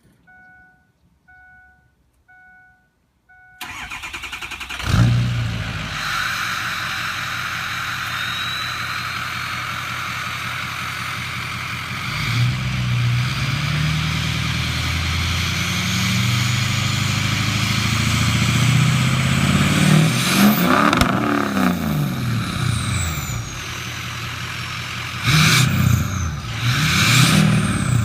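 A vehicle warning chime beeps repeatedly, then a Ford turbo-diesel pickup engine cranks and starts about three and a half seconds in and settles into a rough idle. From about twelve seconds on it is revved several times, with a high turbo whistle rising and falling over the engine, hardest in the revs near the end.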